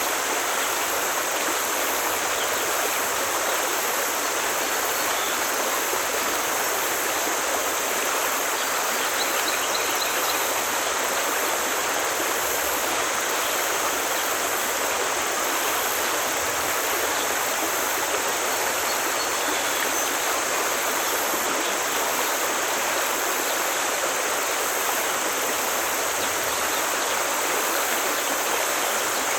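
Forest stream running steadily over rocks, an even rushing and babbling of water.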